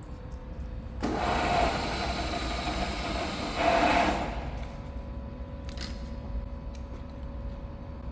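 Milling machine running steadily with a faint hum, cut by a loud hiss that starts abruptly about a second in and lasts about three seconds.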